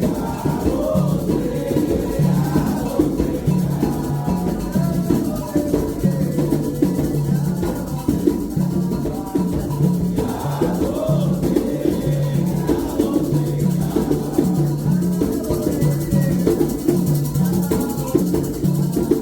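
Candomblé toque: atabaque hand drums playing a steady, repeating rhythm.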